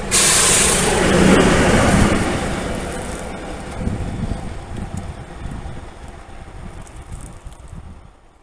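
SM42 diesel-electric shunting locomotive running light past, loud at first and fading steadily as it moves away over several seconds.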